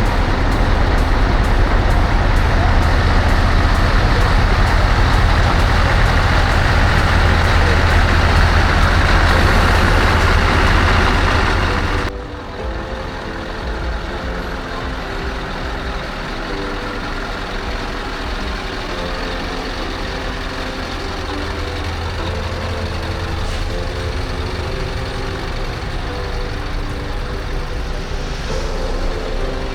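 Truck engine running with heavy, loud rumbling noise for about twelve seconds, then a sudden cut to a quieter stretch of background music over a low engine hum.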